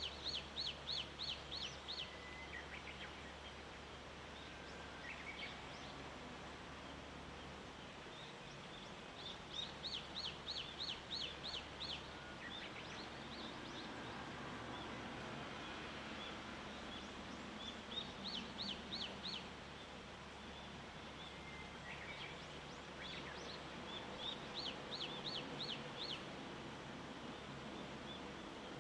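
A songbird repeating a short song of quick, evenly spaced high notes four times, each run lasting about two seconds. Under it is a quiet outdoor background with a steady low hum that stops a third of the way in, and a faint wash of noise that swells in the middle.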